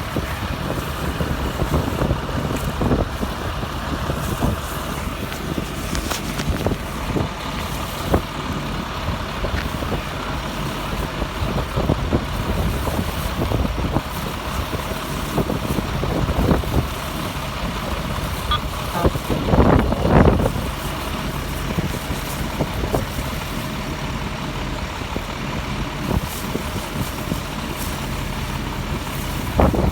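Fire truck engine running steadily at the fire scene, a continuous low hum, with a louder swell about twenty seconds in.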